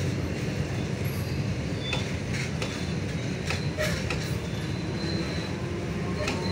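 Suburban electric multiple-unit local train rolling past close by, a steady rumble of steel wheels on rail. A few sharp clacks come through at uneven intervals.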